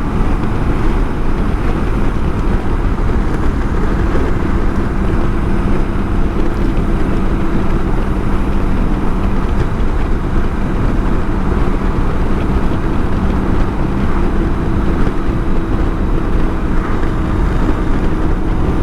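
BMW K1600 GTL's inline-six engine running at a steady pitch while the motorcycle is ridden, over a constant rush of wind and road noise.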